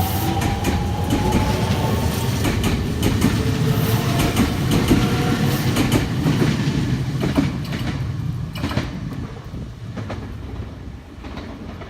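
Nagoya subway train running, with an electric motor whine rising in pitch at the start and wheels clacking over rail joints. The sound fades over the last few seconds.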